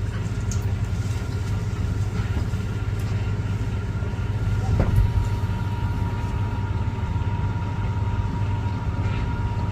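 Car engine idling with a steady low rumble. About halfway through there is a single thump, and a faint steady high tone joins after it.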